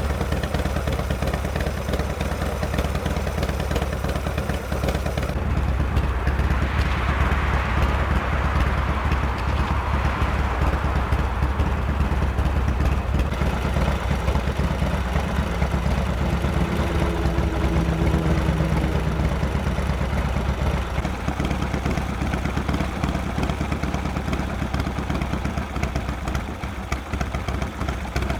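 Harley-Davidson FXR motorcycle's V-twin engine running steadily; about six seconds in the sound shifts and grows a little louder.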